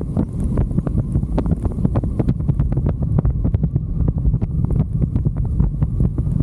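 Wind buffeting the microphone of a moving motorcycle: a heavy low rumble with rapid, irregular crackling pops.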